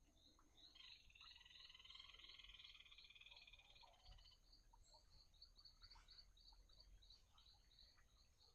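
Faint frogs calling: a short high chirp repeated about three times a second, with a longer trilled call over it from about a second in to about four seconds in.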